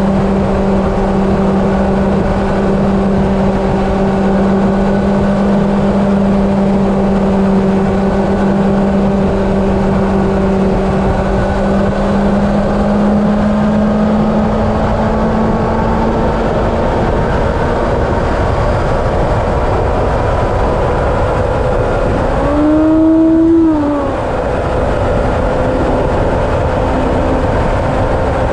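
An engine drones steadily over a loud, constant rushing noise. A second tone slowly rises in pitch through the second half. About 23 seconds in, a brief, louder swell rises and then falls in pitch.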